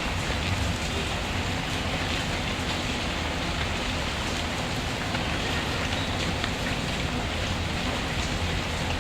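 Steady rain falling, mixed with a fireplace's fire crackling in faint scattered ticks.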